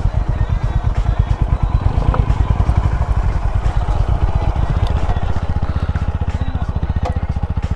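Honda CB350 H'ness single-cylinder engine running at low revs, its exhaust pulsing evenly at about ten beats a second.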